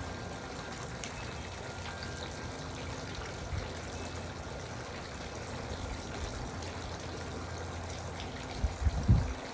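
Garden water fountain trickling steadily, with a short cluster of low thumps near the end.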